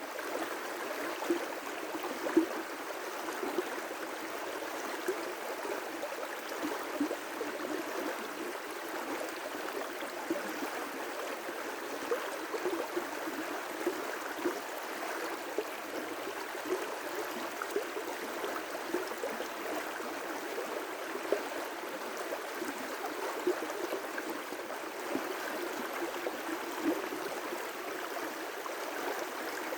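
River rapids: water rushing steadily over rocks, with frequent small splashes and gurgles.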